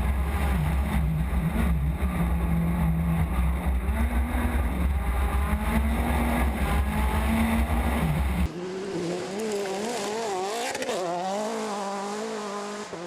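A car engine running with a steady deep drone. After an abrupt cut about eight and a half seconds in, an engine revs up and down repeatedly.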